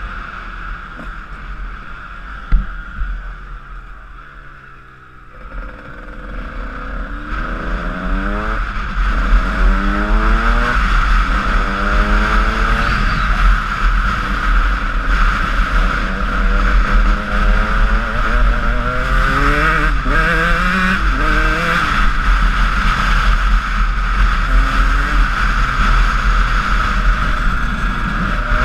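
A Honda CR125 two-stroke dirt bike engine drops back almost to idle about four to five seconds in. It then accelerates hard, its note climbing again and again as it runs up through the gears. A steady wind rush lies under it, and there is one sharp knock early on.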